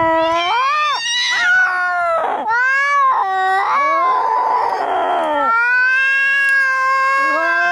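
Cats yowling and caterwauling as in a fight: long, wavering howls that rise and fall in pitch, broken by a harsh, noisy cry in the middle, then one long drawn-out yowl.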